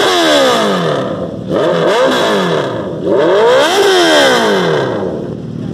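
Sport motorcycle engine revved hard three times, the pitch climbing and then falling away each time.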